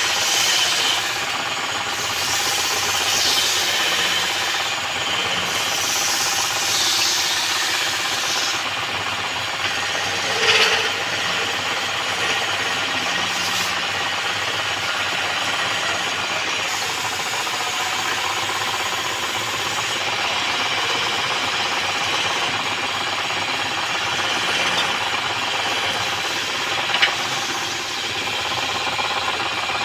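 Wood lathe running, with a tool held against the spinning wood making a steady scraping hiss. The scraping swells and fades every second or two over the first several seconds. Two short sharp knocks come about ten seconds in and again later.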